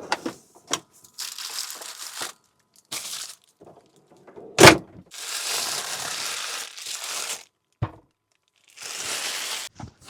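Crinkling, rustling handling noises in irregular bursts, with one sharp knock a little before halfway.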